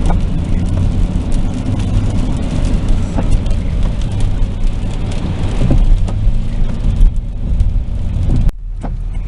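Car cabin noise while driving in rain: a steady low drone of engine and tyres under a hiss of rain. About 8.5 s in, the hiss cuts off suddenly and the low drone continues.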